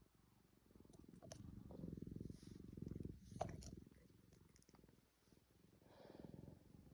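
Faint, low, rapidly pulsing rumble that swells twice, first for a few seconds and again briefly near the end, with a few light clicks.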